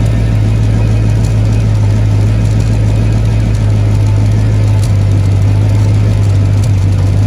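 Car engine idling steadily with an even low hum from the exhaust. The exhaust is leaking below the driver's seat, a leak that tightening the joint's bolts has not cured.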